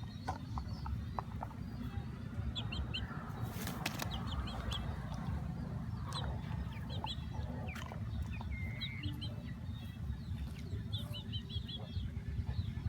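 Birds chirping in short, quick runs of high notes, several times over, above a steady low rumble. Scattered sharp clicks and cracks come through, the loudest about four seconds in.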